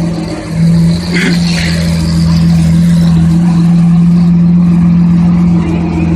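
Car engine droning at a steady pitch, with no rise or fall in revs. A brief fainter sound comes in about a second in.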